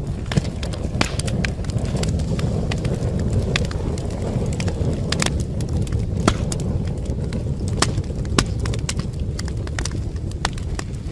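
Wood fire burning in a fireplace: a steady low rumble of flames under irregular sharp crackles and pops, with a few louder snaps about six and eight seconds in.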